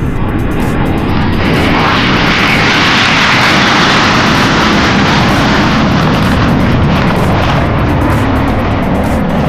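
Jet aircraft engine running loudly, a steady rushing noise that swells about a second and a half in and then holds.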